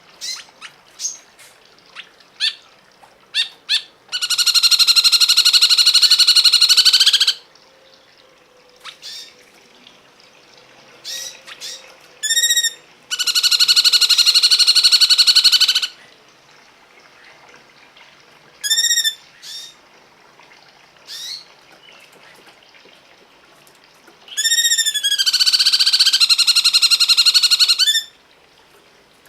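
A songbird's song: short sharp chips and arched whistled notes alternating with three long, harsh, rattling calls of about three seconds each.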